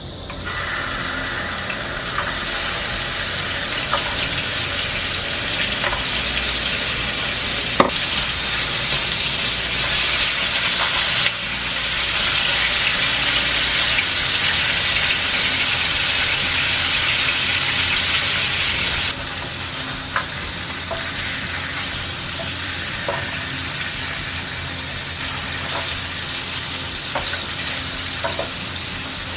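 Hairtail pieces sizzling as they pan-fry in cooking oil: a steady hiss with scattered sharp pops. The sizzle steps up louder about eleven seconds in and drops back about eight seconds later.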